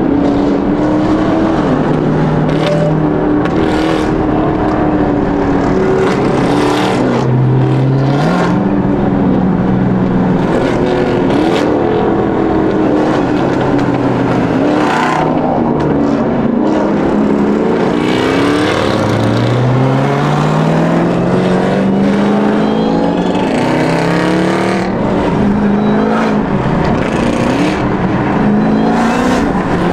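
Car engines revving hard, their pitch climbing and dropping again and again, with steep climbs about eight seconds in and again near the twenty-second mark.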